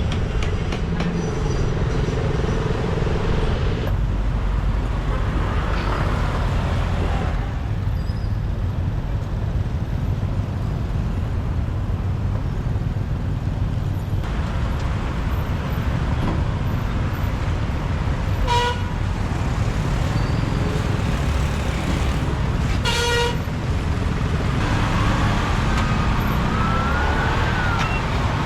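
Motorbike engine and road noise riding in city traffic, a steady rumble. Two short horn toots come in the second half, and a siren rises and falls near the end.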